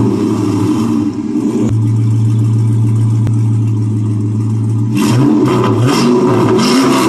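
Car engine running loudly at a steady speed, then revved up and down several times in the last couple of seconds.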